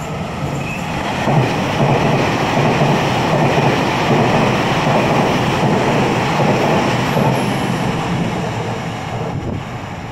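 Train passing on the line, its rumble and wheel noise swelling about a second and a half in and fading over the last few seconds.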